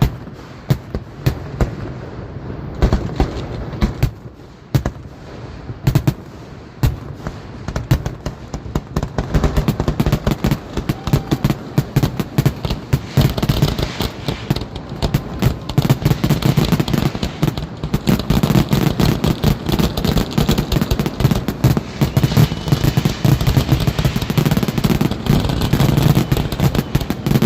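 Fireworks going off: scattered bangs at first, building into a dense run of rapid crackling and booming bursts, with echoes off the surrounding hills.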